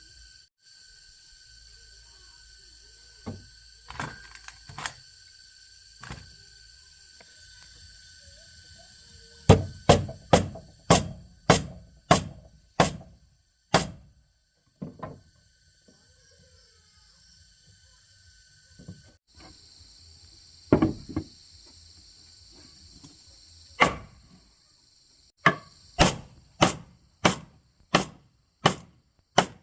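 Hammer blows on wood, about two a second, in two runs of six to eight strikes, with a few single knocks in between, as in nailing boards. A steady high-pitched drone runs underneath.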